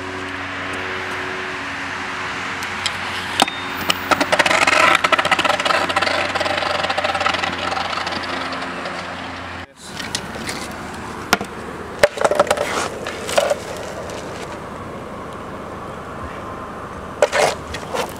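A car engine running with a steady hum, louder and rougher for a few seconds midway. It cuts off abruptly, followed by a few scattered knocks and scuffs of shoes and a longboard on concrete.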